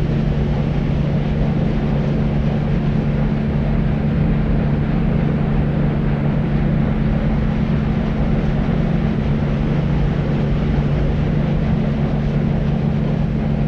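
Deep white noise for sleep: a steady, even hiss weighted toward the low end, with a constant low hum beneath it and no change throughout.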